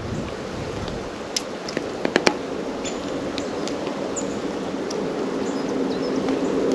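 Sharp taps and clicks of small birds pecking and landing at a seed feeder, bunched about one and a half to two and a half seconds in, with a few brief high chirps. A steady low hum runs underneath and grows a little louder near the end.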